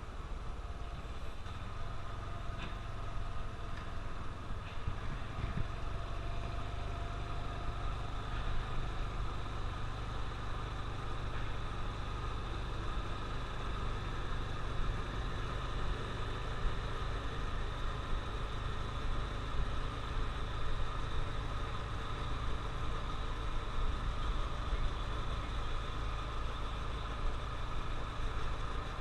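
Honda CT125 Trail's 125 cc air-cooled single-cylinder engine running steadily under a heavy low wind rumble on the microphone.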